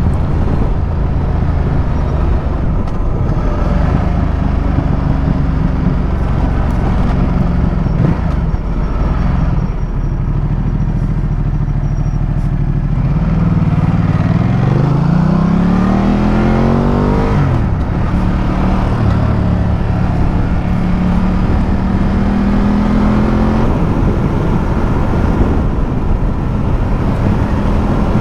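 Ducati Multistrada motorcycle riding along the road, engine and wind noise together. About halfway through, the engine pitch climbs steeply as it accelerates, drops sharply at a gear change, then holds steady.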